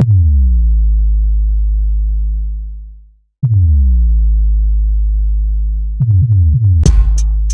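Trap beat built on 808-style sub-bass: two long deep bass notes, each starting with a quick downward pitch drop and sustaining about three seconds, with a short gap between them. About six seconds in, a quick run of short bass hits comes in, followed by crisp hi-hat and snare hits near the end.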